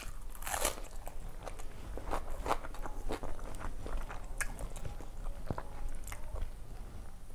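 Close-up chewing and crunching of a mouthful of food, with many short wet mouth clicks at irregular times, the strongest about half a second in. Fingers mixing food on a steel plate add a few light clicks.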